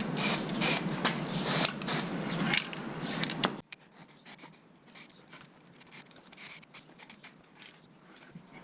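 Repeated scraping strokes of a hand tool rubbed back and forth over a surface, about two to three a second. They stop abruptly about three and a half seconds in, leaving only faint scattered ticks.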